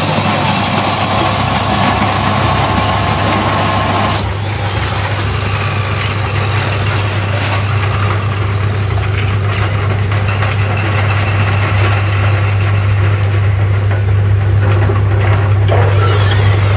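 Loud, steady industrial machinery noise with a constant low hum under a broad rushing noise; a higher-pitched part of the noise drops out suddenly about four seconds in.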